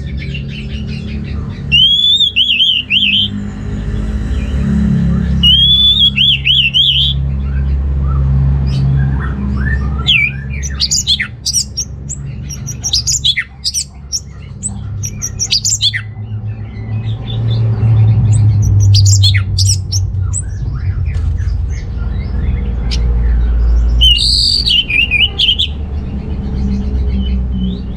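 Orange-headed thrush singing: repeated phrases of quick, warbling, sliding notes, with a longer run of varied notes in the middle. A steady low rumble runs underneath.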